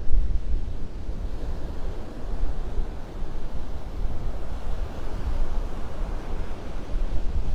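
Wind buffeting the microphone in a strong, uneven low rumble, over the steady wash of surf on the beach, the surf swelling a little past the middle.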